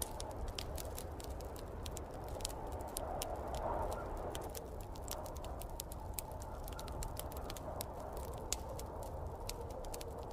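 Wood fire in a fireplace crackling, with many sharp pops and snaps several times a second, over a steady low rumble and the whoosh of snowstorm wind.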